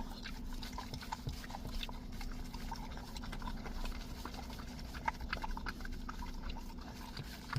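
A puppy licking and lapping at a pup cup of whipped cream: quick, irregular wet smacks and clicks, over a steady low hum.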